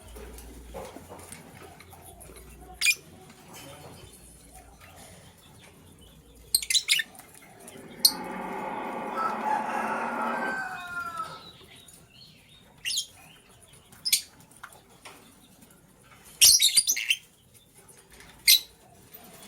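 Lovebirds chirping, with short, sharp, high calls every few seconds. About eight seconds in comes a run of dense chattering that lasts some three seconds.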